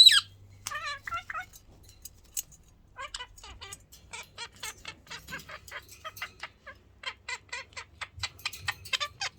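Pet parakeets calling: one loud squawk right at the start, a short chattering call about a second in, then from about three seconds in a long run of short, quick chirps, about four a second.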